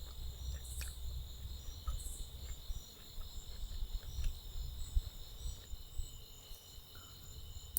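Insect chorus, a steady high-pitched trilling, over an uneven low rumble.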